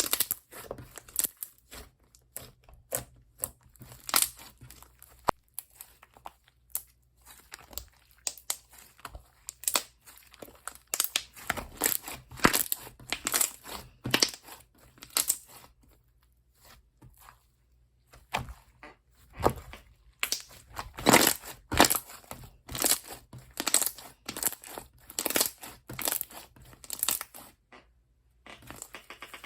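Slime being squished, pressed and pulled by hand, giving dense, irregular sticky crackles and clicking pops, with a few short pauses.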